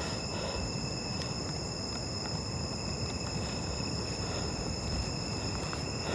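Steady chorus of crickets and other night insects: several high trills, each held at an even pitch, over a low background rumble.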